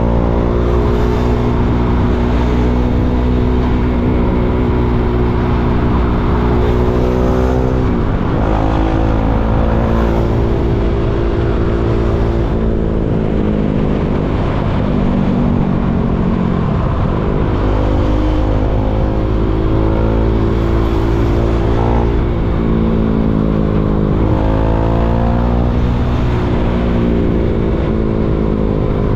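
KTM Duke 390's single-cylinder four-stroke engine pulling through traffic, its revs climbing steadily and dropping back several times as it shifts and slows.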